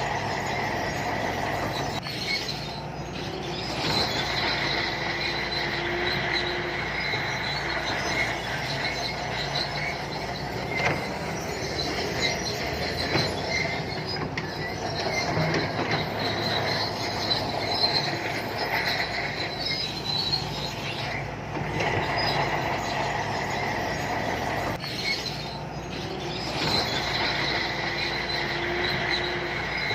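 Shantui crawler bulldozer working: its diesel engine runs steadily under a high metallic squeal and clatter from the steel tracks, which fades briefly a few times and then returns.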